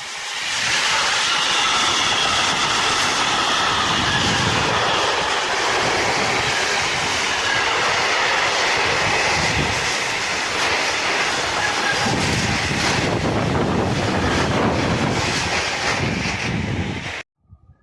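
A train running through a station, loud and steady, with a whine in the first few seconds and repeated knocks of wheels over the rail joints. The sound cuts off abruptly near the end.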